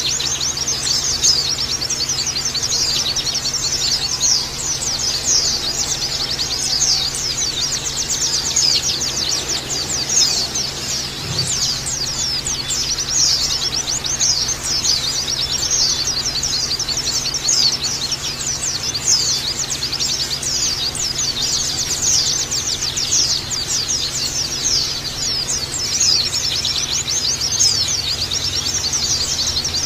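A group of white-eyes (pleci) twittering together: dense, overlapping, high thin chirps that run on without a break.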